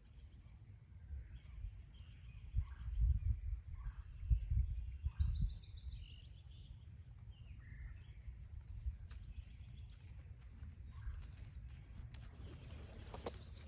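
Woodland birds calling and singing in short notes, with a quick trill about five seconds in, over a gusting low rumble on the microphone. Footsteps on the trail click in near the end.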